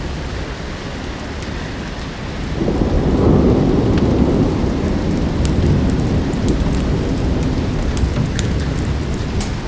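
Steady rain with the sharp crackles of a wood fire. A roll of thunder swells up about two and a half seconds in and keeps rumbling.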